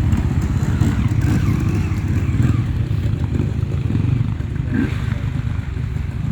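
Enduro motorcycle engine running steadily with a rapid, even firing pulse.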